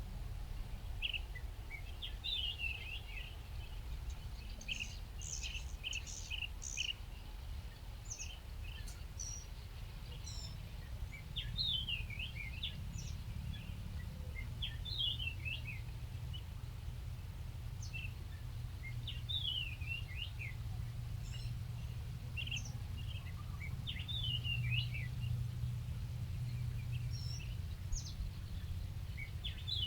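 Birds chirping: short, quick falling notes in scattered bursts throughout, over a steady low rumble.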